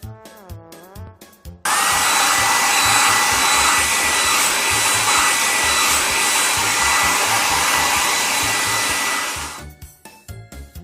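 A loud, steady rushing hiss with a thin high whistle, a cartoon sound effect, cuts in suddenly about a second and a half in and fades out about eight seconds later. Children's music with a steady beat plays before, under and after it.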